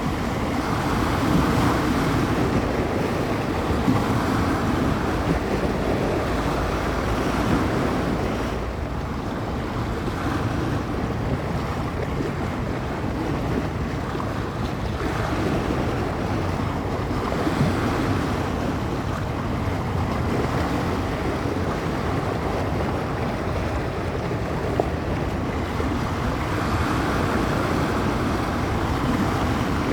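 Bay waves washing and breaking along the shoreline, the surf swelling and easing every several seconds, with wind buffeting the microphone.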